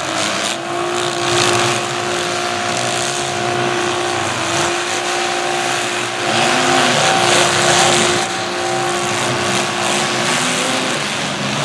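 Several demolition derby cars' engines running hard, with a few revs that rise and fall in pitch over a steady engine drone.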